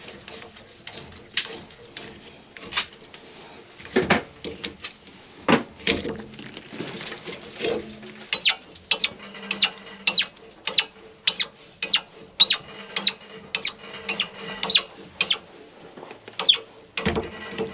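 A hand tool working on a copper water pipe: scattered clicks and knocks, then from about halfway a run of sharp, evenly spaced metallic strokes about two a second, stopping a couple of seconds before the end.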